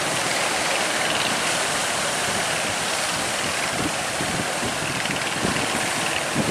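Fishing boat's engine running steadily under tow load, with strong wind buffeting the microphone.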